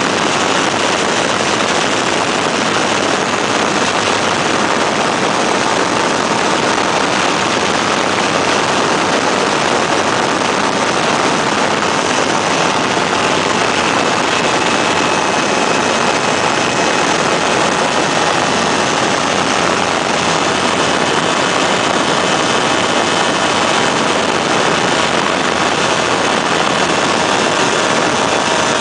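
Weedhopper ultralight's engine and propeller running steadily at a constant, loud level, with a faint whine that drifts slowly in pitch.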